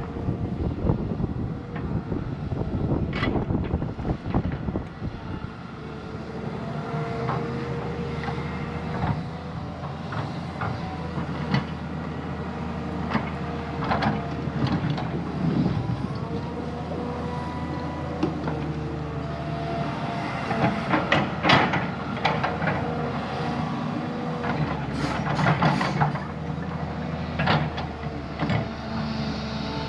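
Diesel earthmoving machine at work: the engine runs steadily with a whine over it, and metallic clanks and knocks come frequently throughout, with several louder ones in the last third.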